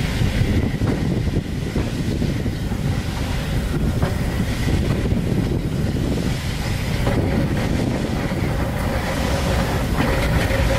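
Steam-hauled heritage passenger train running along the line, heard from a carriage window: steady wheel and track noise with wind on the microphone, and a couple of clicks from the wheels over rail joints.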